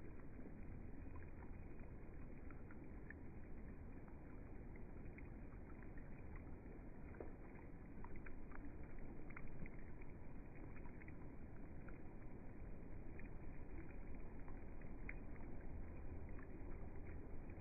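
Rain falling: a steady wash of noise with many small scattered drop ticks, growing a little louder about halfway through.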